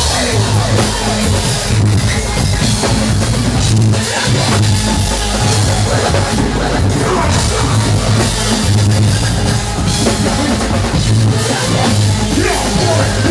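Loud live concert music: a drum beat with heavy bass, playing continuously without vocals.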